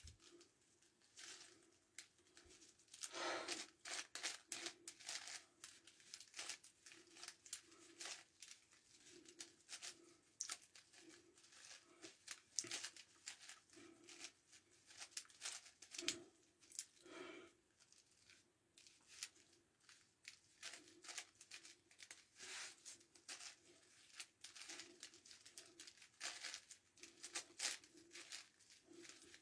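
Faint, irregular plastic clicking and scraping of a 9x9x9 Rubik's cube's layers being turned in quick runs of moves.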